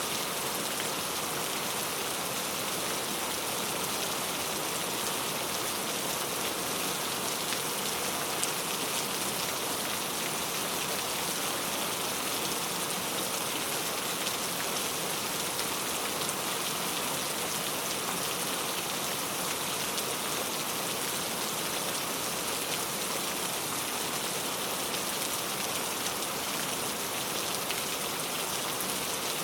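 Steady rain falling, an even hiss with small drops pattering on a surface.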